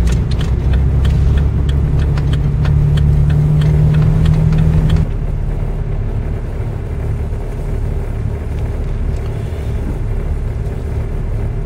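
Jeep's turn signal clicking about twice a second over the steady engine and road drone, heard inside the cabin. About five seconds in the clicking stops along with a low hum, leaving the even drone of the vehicle driving.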